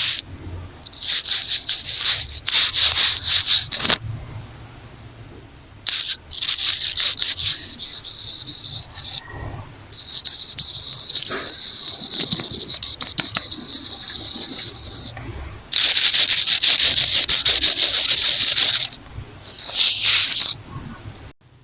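A hair tie brushed and scratched fast over an earphone used as the microphone: close, bright, scratchy rustling in several runs of one to five seconds with short pauses between them.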